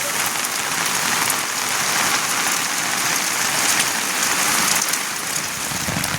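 Steady rain falling, a dense even hiss of many small drops striking surfaces.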